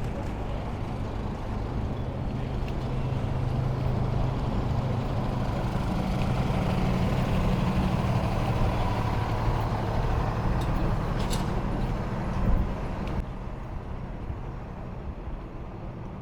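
City street traffic with a heavy vehicle's engine running close by, growing louder toward the middle and then fading, with one sharp knock about twelve seconds in.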